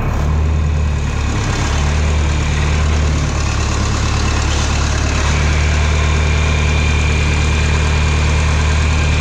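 John Deere 3020 tractor engine idling steadily, with a strong low, even drone.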